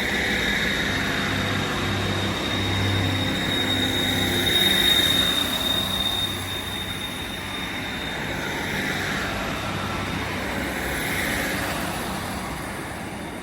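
Class 150 and Class 156 diesel multiple units pulling out of the station, their diesel engines running under power as the train rolls past. A steady high-pitched whine rides over the rumble, loudest about five seconds in, and the sound eases as the train moves away.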